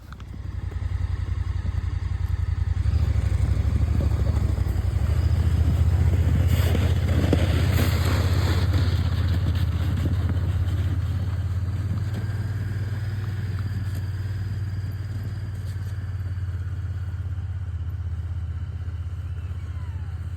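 A motor vehicle's engine starts up and runs steadily with a deep hum. A louder rushing noise rises around six to nine seconds in.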